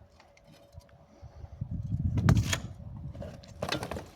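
Short clattering knocks and scrapes over a low rumble, once about two seconds in and again near the end.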